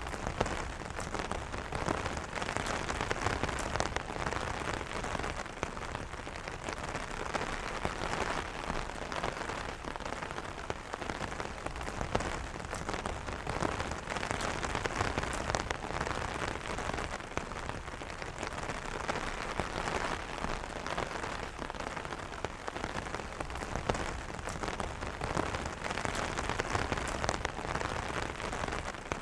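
Steady rain falling on an umbrella: a dense, even patter of many small drop ticks over a soft hiss.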